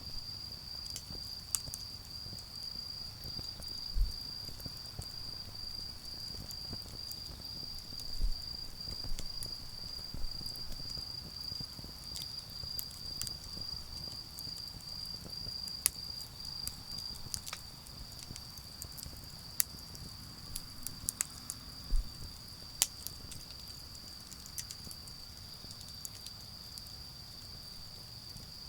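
Autumn insects trilling in one steady, continuous high-pitched chorus, over a wood-and-charcoal fire crackling with scattered sharp pops that come more often in the second half. A few soft low thumps and a faint low rumble lie underneath.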